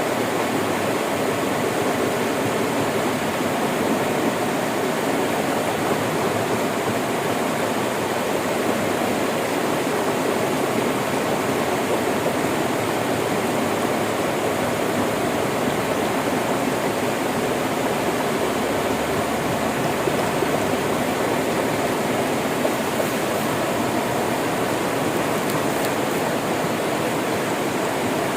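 Steady rush of a flowing river, an even wash of water sound with no breaks or changes.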